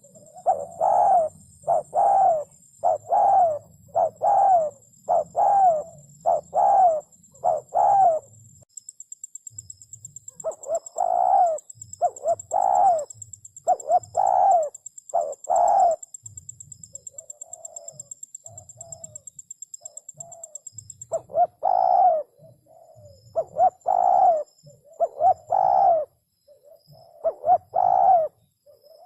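Spotted doves cooing: runs of short, deep coo notes, about one every three-quarters of a second, in three bouts with softer coos between them.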